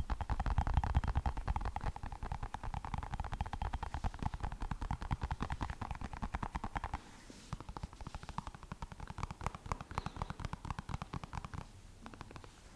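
Fast fingernail tapping on an object held close to the microphone, many taps a second, with deep thuds under it; about seven seconds in the thuds drop away and the tapping goes lighter and quieter.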